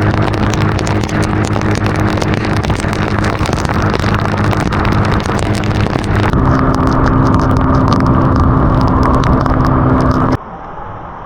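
Car engine running steadily under road noise, with many short ticks over it. The sound changes abruptly about six seconds in and drops much quieter near the end.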